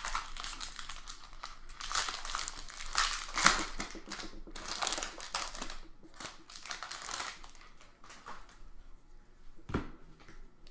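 Trading card pack wrappers crinkling, with cards being handled and shuffled in irregular rustling bursts and a few sharp clicks.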